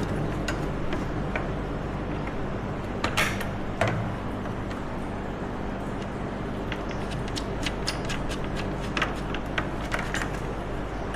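Scattered light clinks and knocks of metal parts and hand tools being handled while ATV parts are fitted, over a steady low hum.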